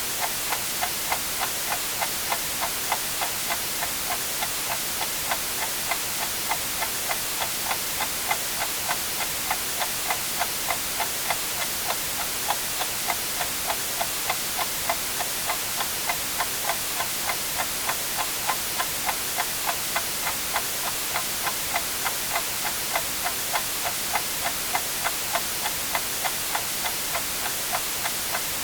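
A clock ticking steadily about twice a second over an even white-noise hiss.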